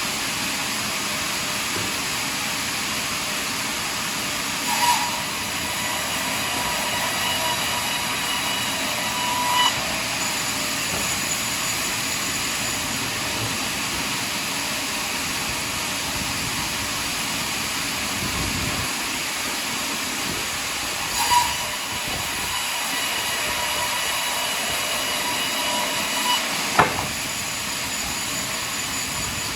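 A sawmill running steadily while cutting a large pine log. A higher whine rises over the machine noise twice, each time for about five seconds, with a short knock at its start and end.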